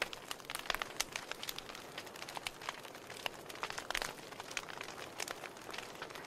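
Wood fire crackling: burning logs give a steady soft hiss with many irregular sharp pops and snaps, several a second, a few louder ones scattered through.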